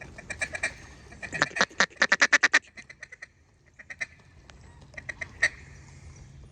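Mallard duck call blown in a rapid run of loud quacks, about eight a second, peaking a second or two in, followed by a few single quacks near the end.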